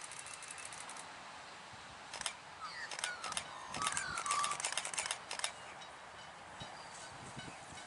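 Birds calling: rapid clicking chatter, then from about two seconds in a louder burst of clicks and short sliding chirps that lasts a few seconds.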